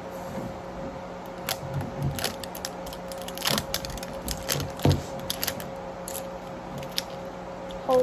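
Plastic and paper wrapping layers of a LOL Surprise pet toy being peeled and crinkled by hand, with scattered clicks and rustles, the loudest a little past the middle. A faint steady hum runs underneath.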